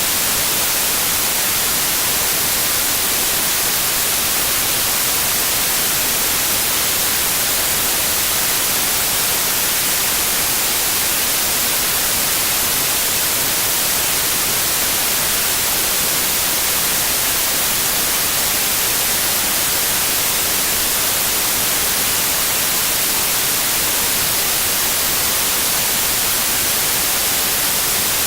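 Steady, unchanging white noise: an even hiss, brightest in the high end.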